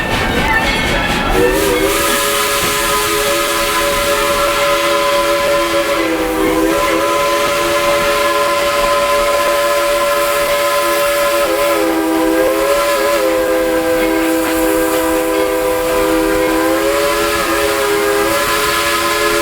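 Steam locomotive's chime whistle blowing one long blast of several tones at once, starting about a second and a half in. Its pitch wavers briefly a few times.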